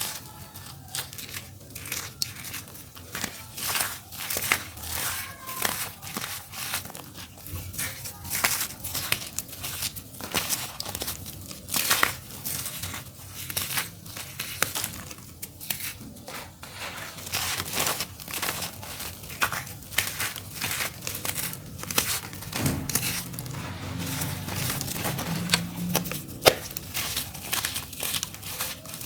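Dry clumps of earthy dirt being crumbled and crushed: a dense, irregular run of crunches and crackles.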